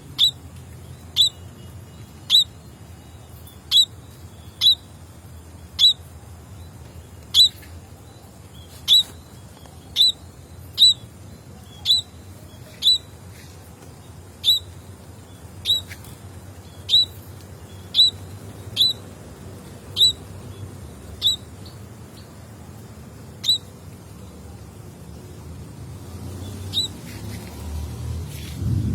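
A small bird giving short, sharp single chirps, about one a second, each a quick downward-sliding note. A low rumble grows near the end.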